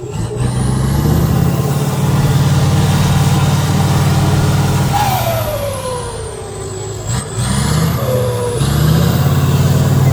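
Competition trial truck's diesel engine working hard, with revs that ease and rise again, a falling whine about five seconds in, and a brief drop about seven seconds in.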